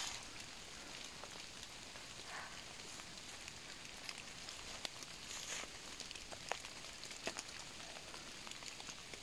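Light rain falling: a faint, even hiss with scattered drops ticking now and then.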